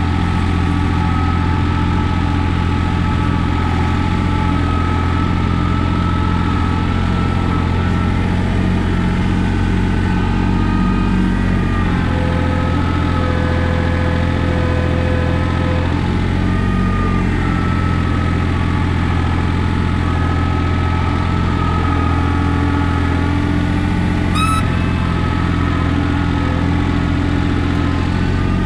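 Compact tractor's diesel engine running steadily, with a short squeak near the end.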